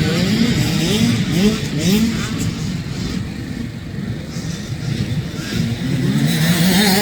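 Dirt bike engines at a motocross race, revving up again and again as they accelerate through the gears. The revving eases off through the middle and builds again near the end.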